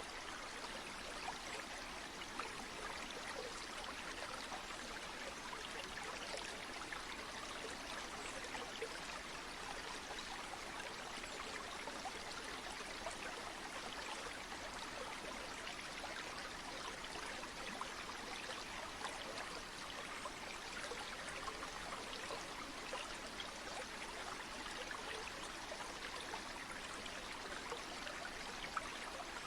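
Flowing stream water, a steady even rush with small trickles and splashes scattered through it.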